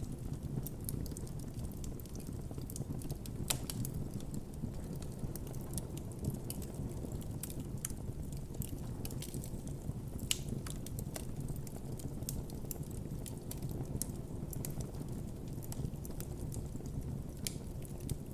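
Campfire burning with a steady low rumble of flames and frequent irregular crackles and pops from the burning wood.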